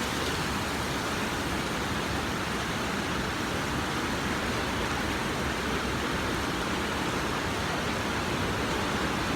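Rain falling steadily: a dense, even hiss with no single drops standing out.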